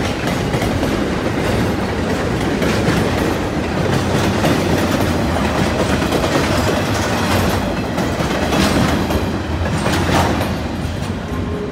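Freight train rolling past, its wagon wheels clattering over the rail joints, the sound starting to fade near the end.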